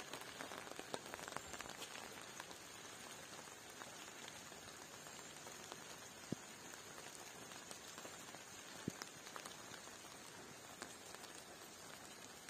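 Light rain falling, a faint steady patter with scattered drops, two of them landing more sharply about six and nine seconds in.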